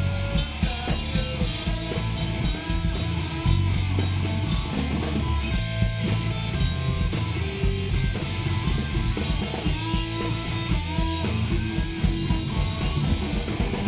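Live rock band playing an instrumental break: electric guitar lead with bending notes over bass and a steady drum-kit beat.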